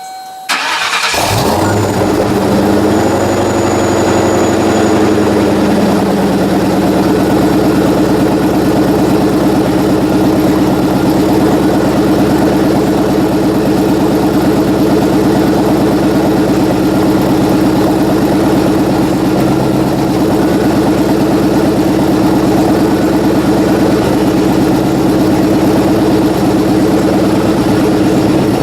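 Supercharged Ford 4.6-litre two-valve V8 with stage 2 cams, running on E85, cold-starting: it cranks and catches about half a second in. Its idle speed wavers for the first few seconds, then settles into a steady idle from about six seconds in.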